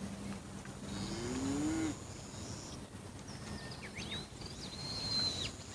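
A cow moos once about a second in, a short call that rises in pitch and then holds. Faint whistled bird calls follow near the end.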